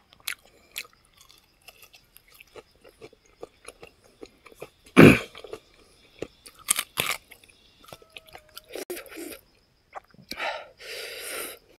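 Close-miked mouth sounds of a man eating fried pig feet and rice by hand: chewing and biting, with wet smacks and crunches. A loud thump comes about five seconds in, and a short hissing sound comes near the end.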